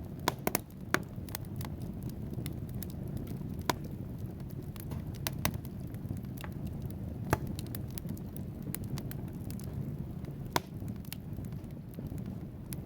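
Wood fire burning in a fireplace: a steady low rumble of flames with frequent sharp crackles and pops from the logs. A cluster of louder pops comes in the first second, and single loud pops come about 4, 7 and 10½ seconds in.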